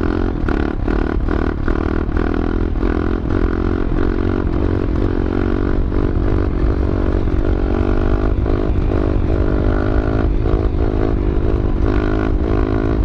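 Pit bike's single-cylinder engine running at fairly steady throttle while riding, its pitch lifting and dipping slightly a few times. Quick sharp clicks or knocks come through over it, two to three a second early on.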